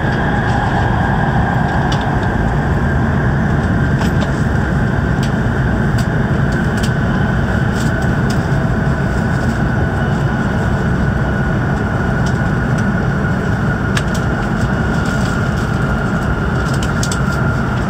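Steady cabin noise of a Hokuriku Shinkansen train running at speed through a long tunnel: a deep rumble with a faint high whine, and a few light clicks.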